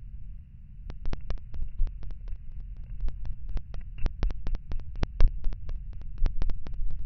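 Low, steady rumble with a rapid, irregular series of sharp clicks or taps starting about a second in.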